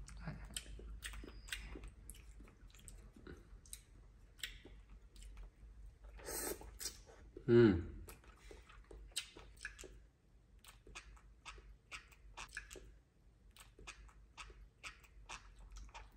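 Close chewing and lip-smacking on soft pho rice noodles: a run of small, wet clicks. A short voice-like sound falling in pitch comes about seven and a half seconds in.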